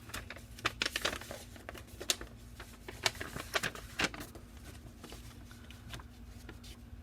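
Paper instruction sheet and kit packaging being handled: rustling with scattered light clicks and taps, busiest about three to four seconds in.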